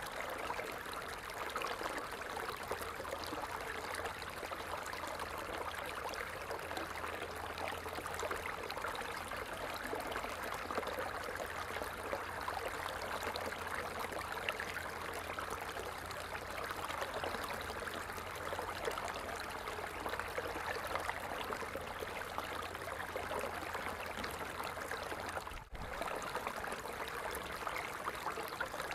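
Water falling steadily, an even unbroken rush, with a momentary dropout near the end.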